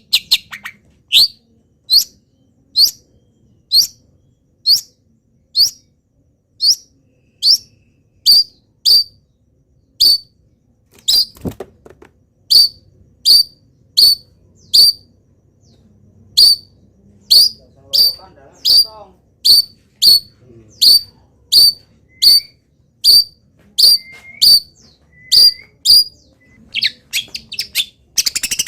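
Long-tailed shrike (cendet) calling: a sharp, high note that sweeps down, repeated a little more than once a second, breaking into a quicker flurry of notes near the end.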